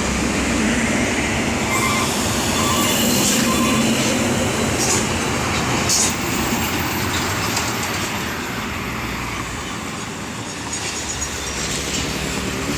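Heavy truck passing close by, its diesel engine and tyres making a loud, steady rumble that eases off in the second half as it moves away.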